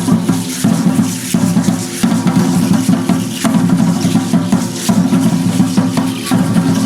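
Aztec dance drumming: a large drum beaten in a steady beat, about one strong stroke every 0.7 seconds, with a continuous shaking rattle over it.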